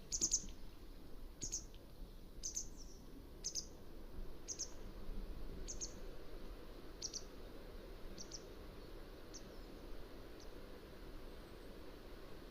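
Mountain wagtail giving a series of short, sharp, high call notes, about one a second, growing fainter over the last few seconds.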